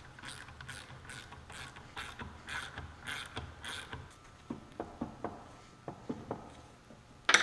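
Ratchet wrench clicking in a steady run as the differential carrier's bearing caps are tightened down, then a few sharper separate clicks and a loud click at the very end.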